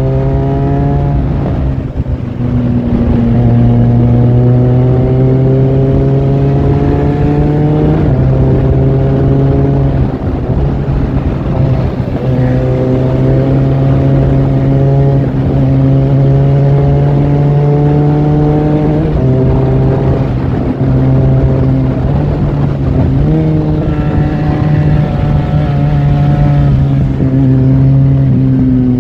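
Benelli 502C's 500 cc parallel-twin engine running under way. Its note climbs slowly and drops back several times (near 2, 8, 19 and 23 seconds in), as the motorcycle pulls through its gears.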